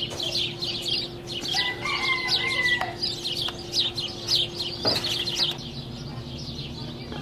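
Birds chirping rapidly and continuously: many short, high, falling notes, with one longer drawn-out call about two seconds in. The chirping fades about five and a half seconds in.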